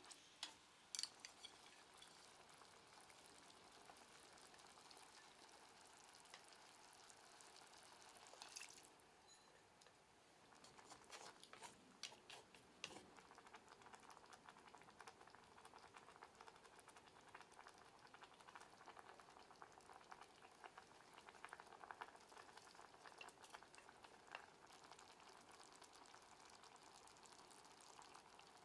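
Faint sizzling of food frying in a pan, with many small crackles and clicks. The sizzle briefly drops away about nine seconds in, then returns.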